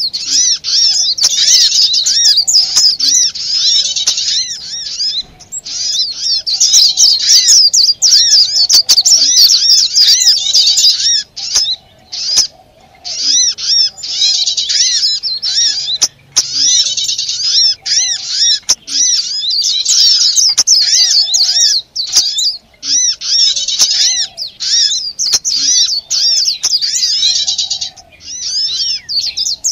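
Bird-lure recording of a crowd of small songbirds calling noisily: a dense, rapid stream of high, overlapping chirps, broken by several short pauses.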